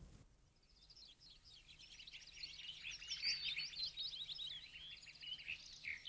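Birds singing: many overlapping chirps and trills that fade in about a second in and build to a busy chorus.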